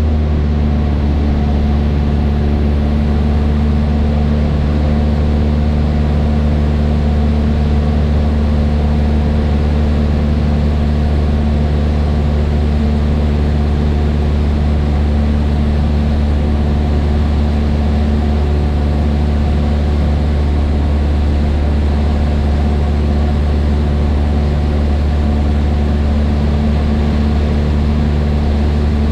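Cessna 152's four-cylinder Lycoming O-235 engine and propeller running at a steady, unchanging speed, heard inside the cockpit.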